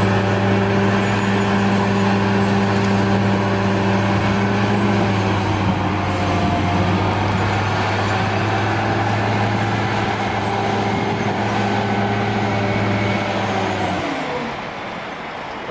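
Engine of a heavy work machine running steadily at a constant speed, then throttling down near the end, its pitch sliding lower and the sound dropping in level.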